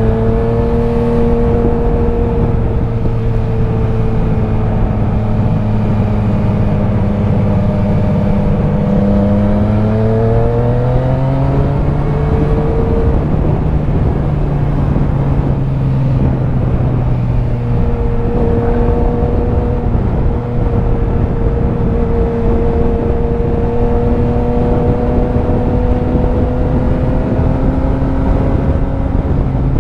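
Motorcycle engine running steadily while riding, under a constant rush of wind and road noise. Its pitch rises around ten seconds in, then settles to a steady note again.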